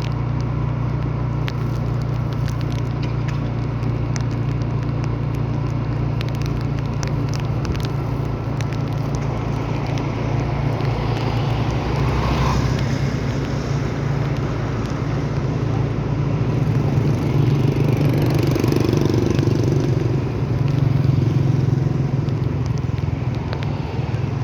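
A vehicle engine running steadily, with road noise and scattered crackles. The noise swells briefly about halfway through and again for a few seconds near the end.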